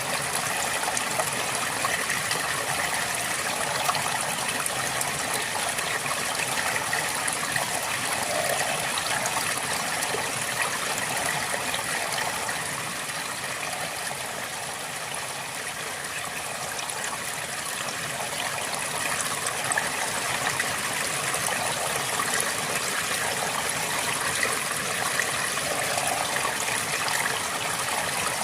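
Shallow river flowing steadily over stones, a continuous rush and babble of water, easing slightly about halfway through before coming back up.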